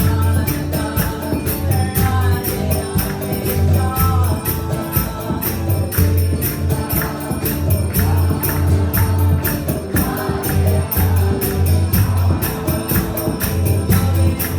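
Live devotional kirtan music: voices singing a Krishna chant over a steady low drone. A jingling percussion beat of about four strokes a second runs through it.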